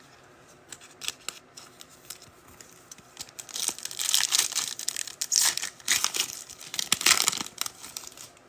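A foil trading-card pack wrapper being torn open and crinkled by hand, in loud bursts of rustling through the middle, after a few light clicks of cards being handled.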